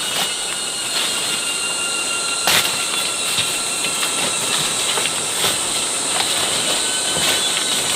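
Steady high-pitched shrilling of an insect chorus, crickets or cicadas, with a few short knocks, the strongest about two and a half seconds in.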